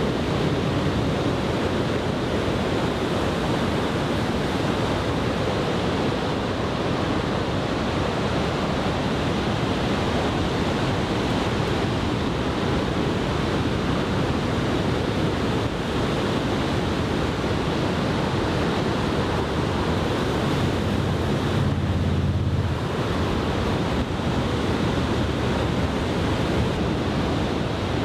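Large typhoon-swell surf breaking, a steady roar of waves, with wind buffeting the microphone. A stronger low rumble of wind comes about three-quarters of the way through.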